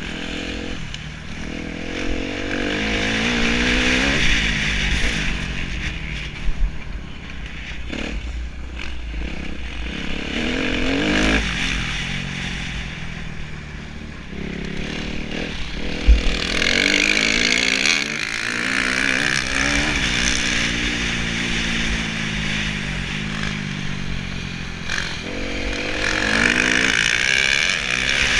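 Kawasaki KX250F four-stroke single-cylinder motocross engine revving hard and easing off again and again as the bike is ridden around the track. Two sharp knocks stand out, about a quarter of the way in and just past the middle.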